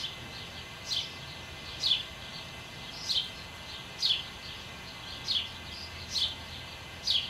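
A bird calling: a short, high chirp that slides downward, repeated about once a second, over a steady background hiss.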